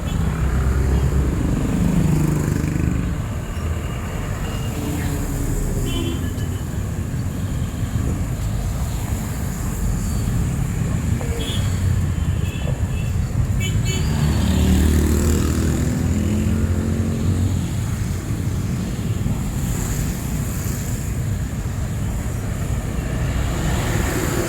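Street traffic: a steady rumble of cars and motorcycles, with engines passing close twice and several short high horn beeps in between.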